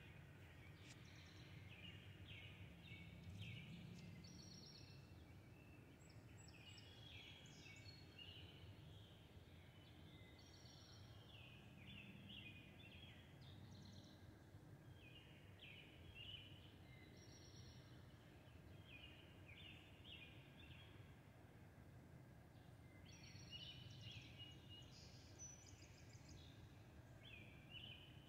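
Faint birdsong: small birds chirping and singing on and off, over a low steady rumble of background noise.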